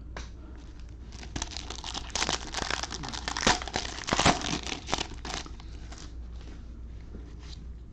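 Foil wrapper of a Bowman baseball card pack being torn open and crinkled: a run of crackling rips over a few seconds, loudest about three and a half to four and a half seconds in, then a few fainter crinkles.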